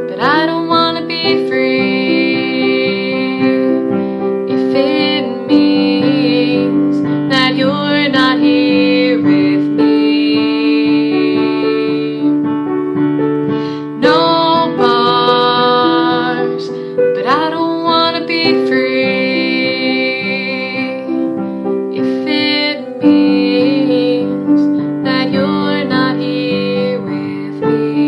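Piano playing sustained chords while a woman sings long held notes that slide up into pitch and waver.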